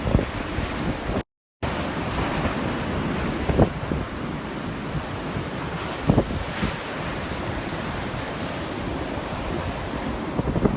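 Storm surf breaking on the shore at high tide, under wind buffeting the microphone in rough low gusts. The sound cuts out completely for a moment about a second in.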